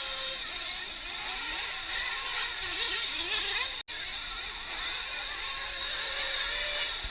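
Small nitro engines of 1/8-scale RC racing trucks on track, several at once, their high whines rising and falling as they throttle up and off. The sound drops out for an instant a little before halfway.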